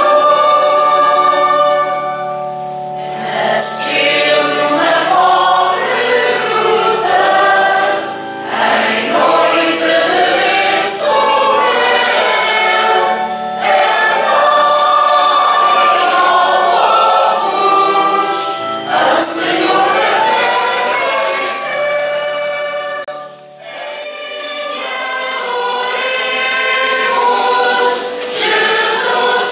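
Church choir singing a Christmas hymn in long phrases over held low accompanying notes, with two short breaks between phrases.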